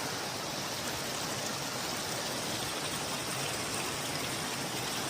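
Steady rushing of a river or stream, an even, unbroken hiss of water.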